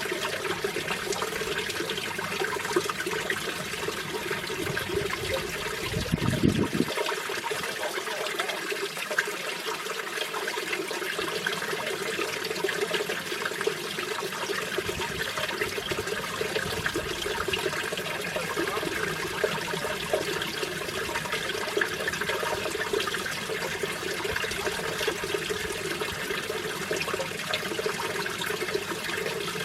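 Mountain stream water rushing and splashing over rocks in a steady, unbroken flow. A brief low rumble comes about six seconds in.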